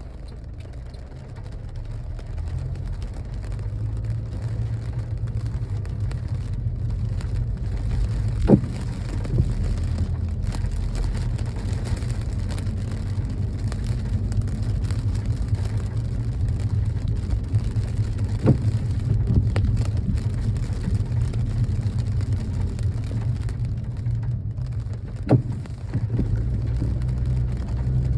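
A car driving in rain: a steady low rumble of road and engine noise under the hiss of rain, with three sharp knocks spread through.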